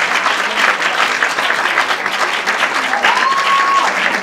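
Audience applauding steadily, with one brief high steady tone, like a whistle, about three seconds in.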